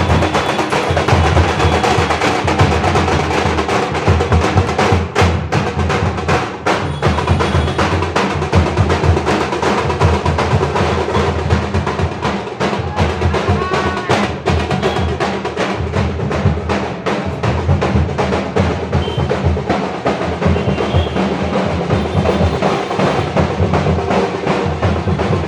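Loud, continuous drumming with a dense, fast beat of many closely packed strokes.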